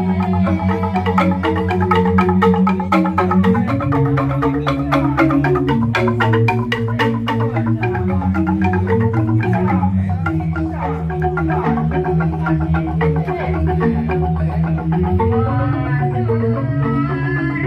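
Balinese jegog bamboo gamelan playing fast, interlocking mallet strikes on bamboo xylophones over deep, sustained bamboo bass tones. The bass note shifts pitch about every few seconds, and the strikes are densest in the first half.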